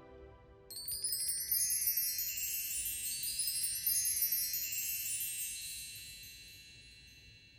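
A shimmering cascade of many high, bell-like chime tones, like a wind chime sparkle effect. It starts suddenly about a second in and slowly fades away.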